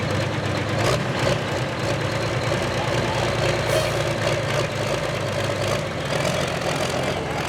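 Pulling tractor's engine running hard as it drags the weight-transfer sled down the track, a steady mechanical noise that carries on without a break.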